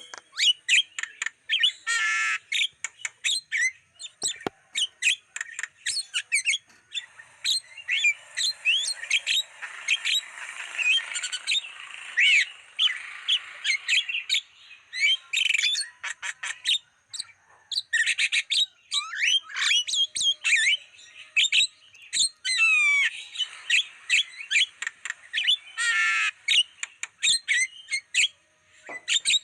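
Javan myna (jalak kebo) calling without a break: a rapid, dense run of harsh squawks, chirps and whistled glides, the kind of recording played as a lure and as a master song for trained mynas.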